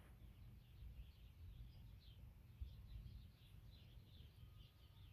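Songbirds chirping faintly, a quick run of short high chirps, over a low rumble of wind on the microphone.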